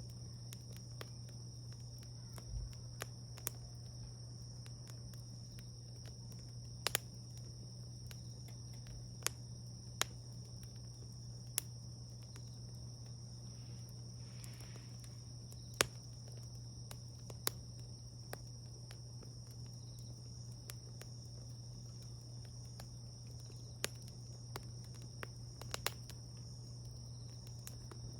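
Wood fire crackling, with sparse irregular sharp pops, over a steady low rumble and a constant high-pitched whine.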